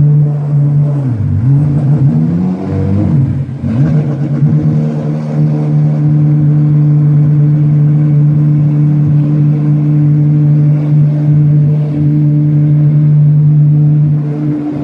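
Apollo supercar's engine running: the revs dip and climb back twice in the first few seconds, then hold at one steady pitch.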